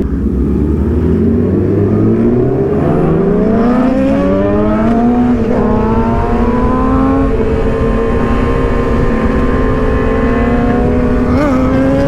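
A 600cc sportbike engine under the rider accelerating: the revs climb steadily for about five seconds, dip at an upshift, then hold steady at cruising speed, with a couple of quick throttle blips near the end and wind noise underneath.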